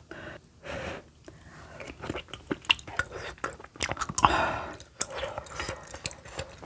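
Close-miked chewing and wet mouth sounds of someone eating kimchi stew, full of quick clicks, with a louder burst of sound just after four seconds in.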